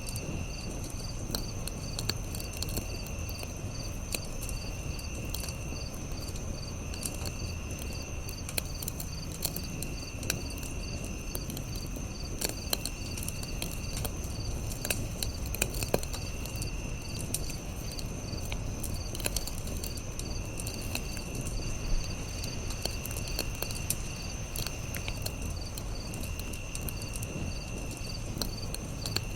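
Campfire crackling, with scattered sharp pops over a low rumble, while insects keep up a chorus: a steady high buzz, a fast pulsing chirp, and a lower trill that comes and goes every couple of seconds.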